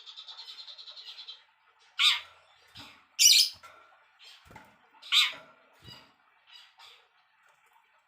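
Songbird calling: a fast, even rattling trill, then three loud, rough calls about a second apart with softer short chips between them.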